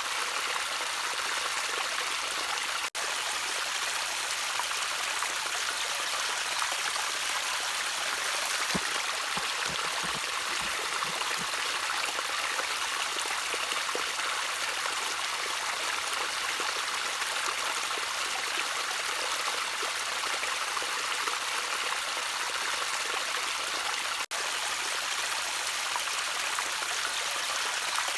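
Gently trickling water: a steady, even rush of flow with some deeper gurgling about nine to eleven seconds in. There are two split-second dropouts, about three seconds in and near the end.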